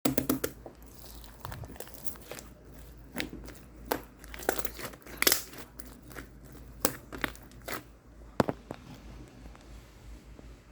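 Crinkling and crackling, like something being crumpled or handled, in irregular sharp bursts, loudest about five seconds in.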